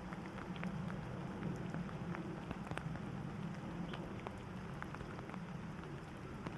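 Steady rain, with scattered drops ticking sharply over a low, even rumble.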